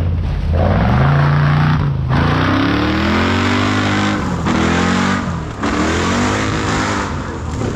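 Off-road 4x4 competition vehicle's engine revving hard, its pitch rising and falling in several surges with brief breaks where the throttle drops, over a rushing noise.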